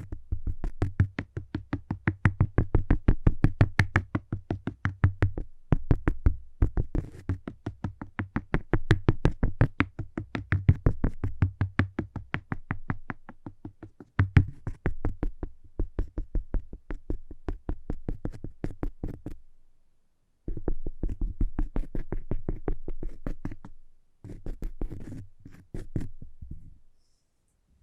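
Rapid, even tapping on cork: many dull taps a second in long runs, with a few short breaks and a pause about two-thirds of the way through.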